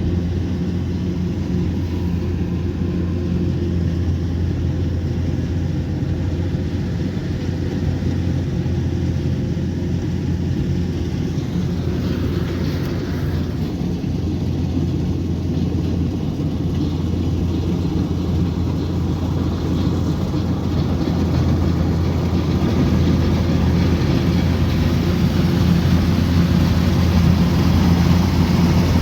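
Kubota combine harvester's diesel engine running steadily with a low, even drone, growing a little louder over the last several seconds.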